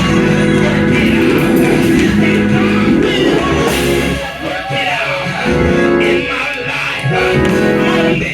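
Gospel music from a live church band, with sustained chords, guitar and singing.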